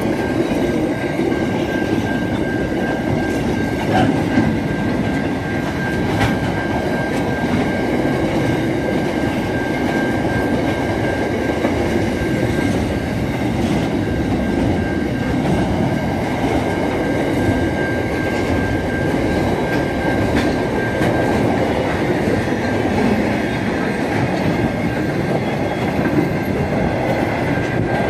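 Container freight train's wagons rolling past, a loud steady rumble with occasional sharp clacks of wheels over rail joints and a thin steady high whine above it.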